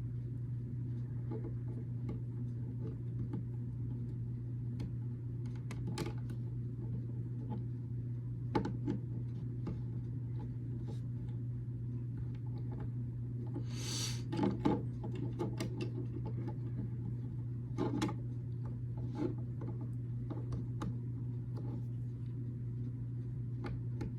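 Small plastic building bricks being handled and pressed together: scattered light clicks and taps, with a short rustle a little past halfway, over a steady low hum.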